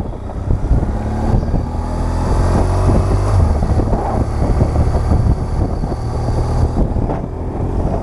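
BMW R1200GS Adventure's flat-twin engine running steadily, mixed with wind noise on the microphone.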